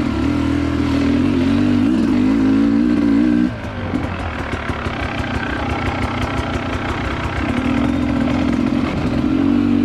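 Dirt bike engine running under throttle on a trail ride. The throttle eases off about a third of the way in, and the engine pulls hard again near the end.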